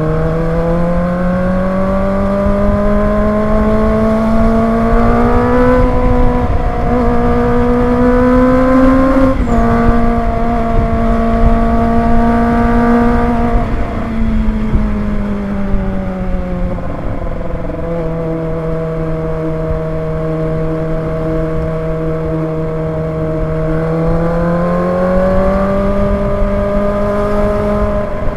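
Kawasaki ZX25R's 250 cc inline-four engine running under way. Its pitch climbs over the first half with small steps, falls as the bike slows around the middle, holds steady, then climbs again near the end.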